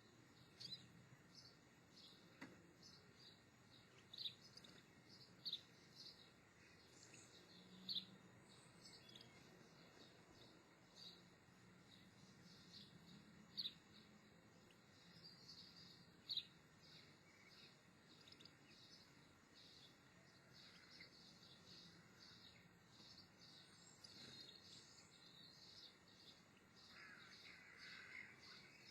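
Near silence, with faint, short, high chirps that come and go throughout, like small birds calling, a few of them a little louder.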